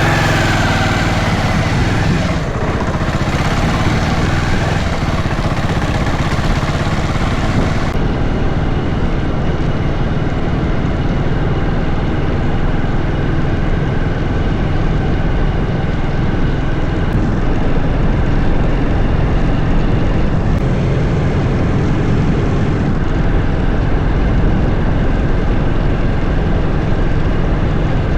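A vehicle engine running steadily and loudly as it travels along a road.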